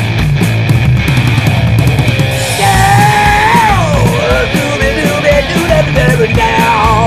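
Loud rock music with a steady drumbeat. A high sliding melodic line comes in about two and a half seconds in.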